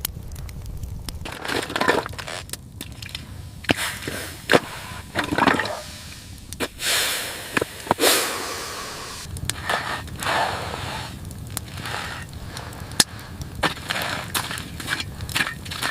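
Irregular crunching and cracking with scraping, a few sharp cracks standing out, over a low background rumble.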